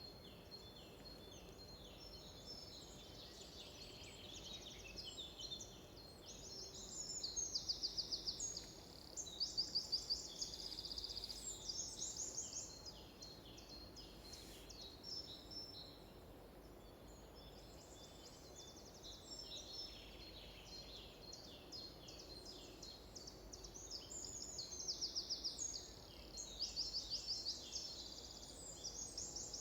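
Several songbirds singing together in a forest, overlapping short chirps and whistles, with louder rapid trilled phrases of about two seconds each, twice early on and twice near the end. A faint steady hiss lies underneath.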